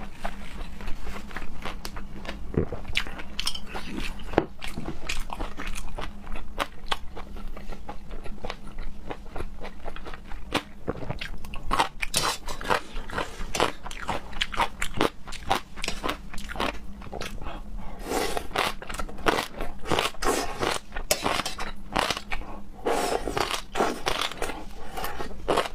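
A person chewing and biting food close to the microphone, with many quick wet crunches and crackles, growing busier about halfway through.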